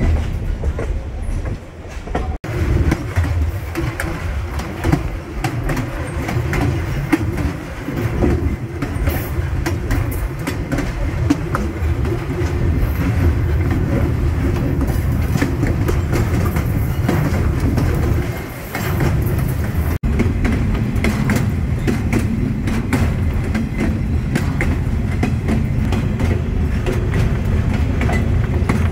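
Passenger train cars rolling along the track, heard from an open-air car: a steady rumble of wheels on rail with continual clicking and rattling of the cars.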